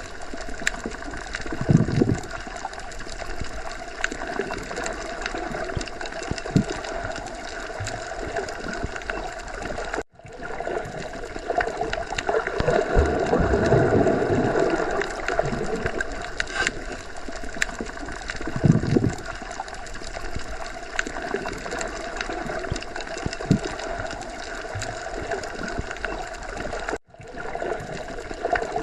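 Underwater sea ambience: continuous gurgling water noise with low surges now and then. It cuts out for a split second about ten seconds in and again near the end.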